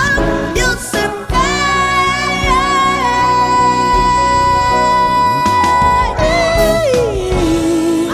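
Music: a singer holds a long high note over gospel-style backing, then slides down in a run and holds a lower note near the end, without words.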